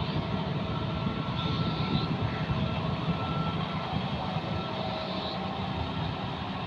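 John Deere 5210 tractor's diesel engine running steadily under load while it pulls a rotavator through mud, with a faint steady whine above the engine.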